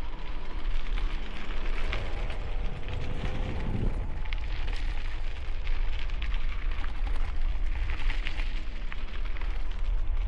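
Wind buffeting a helmet-mounted camera microphone while cycling in high wind: a steady low rumble with constant crackling.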